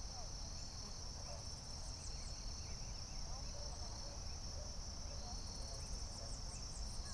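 Forest ambience: a steady, high-pitched chorus of insects such as crickets or cicadas, with faint bird chirps and short trills scattered over it and a low rumble underneath.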